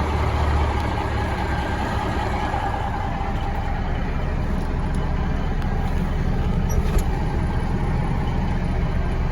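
Peterbilt water truck's diesel engine running steadily, a heavy rumble that is described as sounding good.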